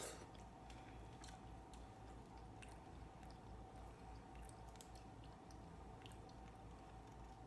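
Faint close-miked chewing of shrimp and mussels: soft wet mouth sounds with scattered small clicks, a slightly louder one at the very start, over a low steady hum.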